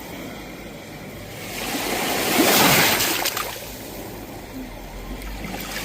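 Sea waves washing onto the shore. One wave swells and breaks about halfway through, then ebbs, and the next begins to build at the end.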